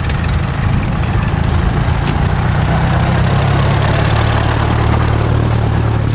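Engine of a vintage open roadster running at low revs as it drives slowly past, a steady low hum that firms up a little about halfway through.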